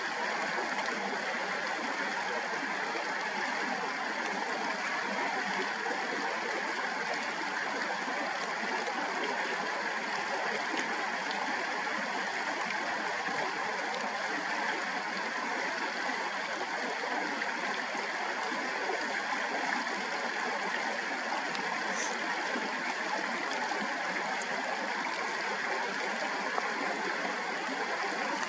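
Steady rushing of a stream running continuously.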